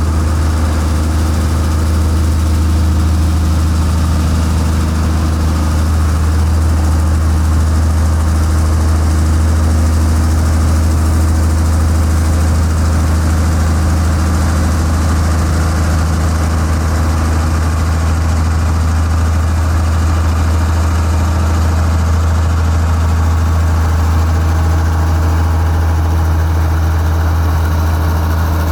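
Heavy earthmoving machine's diesel engine running steadily at a low, even speed, a deep unchanging drone with no revving.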